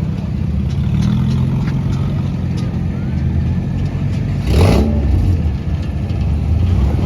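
A car engine running steadily, with a short louder burst of revving about four and a half seconds in.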